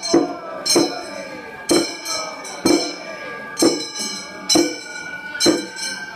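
Gion-bayashi festival music: small bronze hand gongs (kane) struck in a steady beat about once a second, each strike ringing bright and metallic, with a held high flute note over them.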